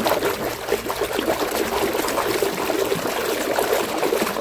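Water trickling and sloshing steadily as a muddy toy tipper truck is washed by hand in water.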